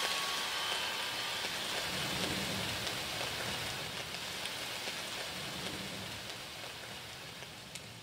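Recorded rain sound effect, a steady hiss of falling rain with low rumbles of thunder about two and five seconds in, fading out slowly.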